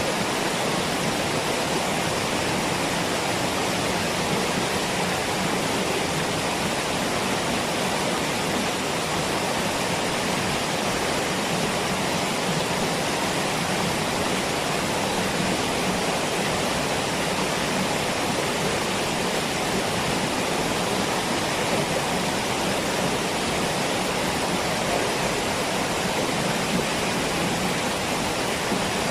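Waterfall: water falling and rushing in a steady, unbroken noise that does not change.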